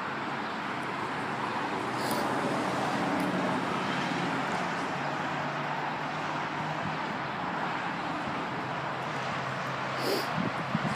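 Road traffic: a steady tyre hiss that swells a few seconds in and slowly eases, with a low engine hum underneath. Two brief faint clicks come about two seconds in and near the end.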